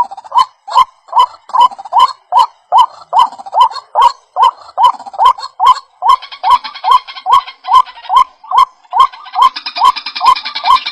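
White-breasted waterhen (ruak-ruak) call: a rapid, steady run of short rising notes, about three a second. A fainter, higher chatter joins it from about six seconds in.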